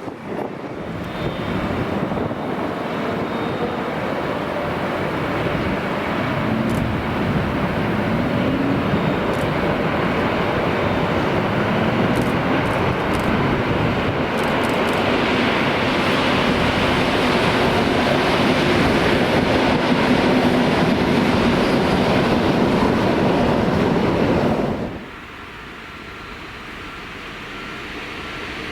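A train running close by: a loud, steady rumble of wheels on rail that builds over the first few seconds and cuts off suddenly near the end.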